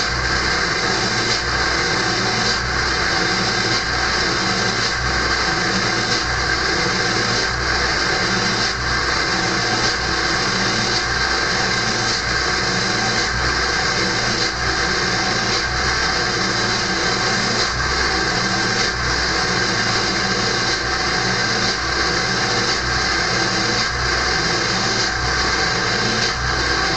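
A Ford 7.3L Power Stroke turbo-diesel V8 in an early 1999 F-250, straight-piped, running at high idle after a cold start with the exhaust back pressure valve closed, making a steady, loud whistling noise over a regular low throb. The closed valve, which the engine uses to warm up faster in the cold, causes the whistle.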